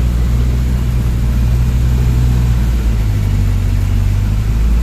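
A vehicle engine running steadily with a loud, low hum, its pitch shifting slightly about three seconds in.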